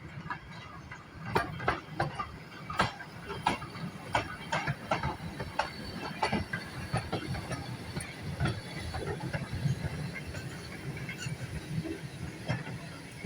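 Goods train of wagons and a brake van hauled by an LB&SCR Terrier steam tank engine, running on the rails. Irregular clanks and knocks from wheels and couplings sound over a steady low rumble, with steam hissing.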